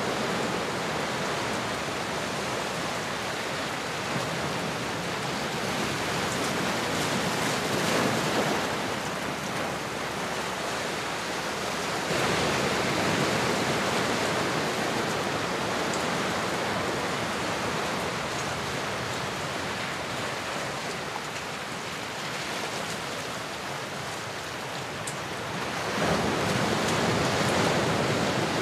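Ocean surf: a steady rush of waves that swells up three times, about eight, twelve and twenty-six seconds in.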